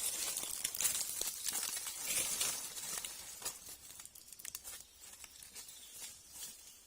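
Rustling, crinkling noise with many small crackles, like dry material being handled, loudest over the first three seconds and then fading.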